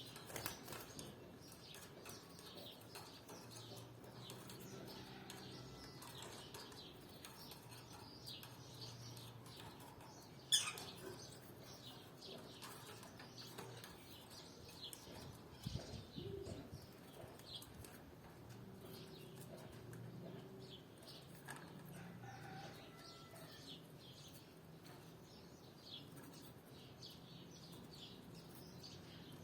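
Canaries giving many short, faint chirps, with one sharp click about ten seconds in.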